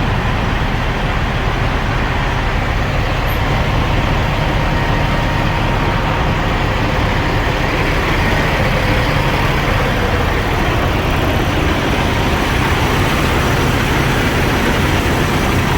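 Diesel semi-truck engines idling, a steady low rumble with no change.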